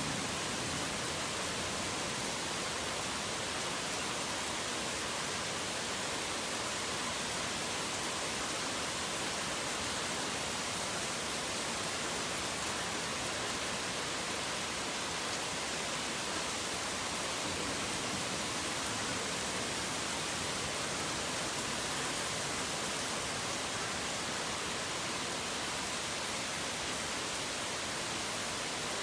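Heavy rain falling steadily, an even hiss with no separate drops standing out.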